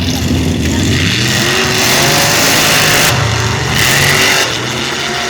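Mud truck engine revving hard, its pitch climbing about a second in and holding high and loud through the middle.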